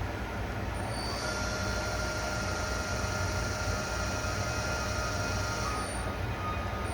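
Milltronics RH33 CNC toolroom mill running: a steady machine hum with several steady tones, and a high whine that comes in about a second in and drops away near the end.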